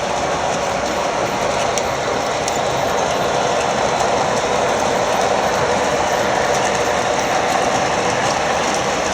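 Long O-gauge model freight train rolling along the track, a steady rolling noise of many wheels on the rails with faint scattered clicks.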